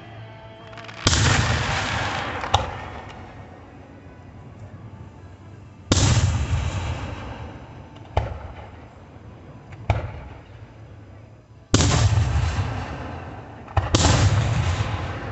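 Fireworks bursting: four heavy booms, each trailing a rolling rumble that fades over a few seconds, with sharp single cracks in between.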